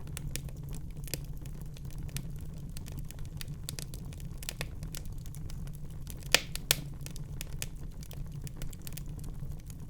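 Wood fire crackling in a fireplace: a steady low rumble of flames with scattered sharp pops and snaps, two louder pops close together a little past the middle.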